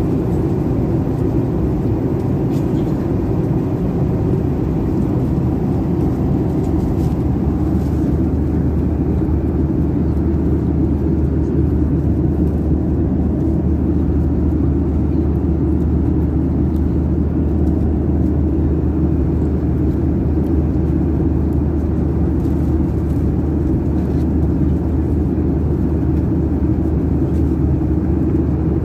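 Steady cabin noise inside a Boeing 737-800 in flight: an even, loud rumble of engines and airflow with a low, constant drone.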